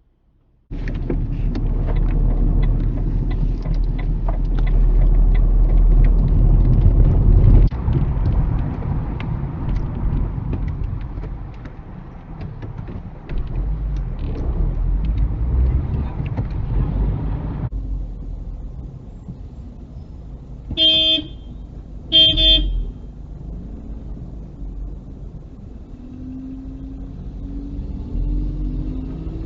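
Car driving on a road, heard from inside the car: steady road and engine noise that cuts off suddenly partway through. After it come two short car horn toots about a second and a half apart.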